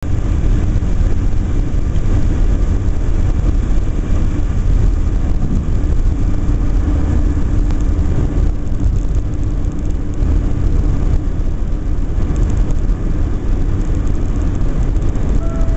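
Steady low rumble of a car driving on the highway, engine and road noise heard inside the cabin, with a faint steady hum.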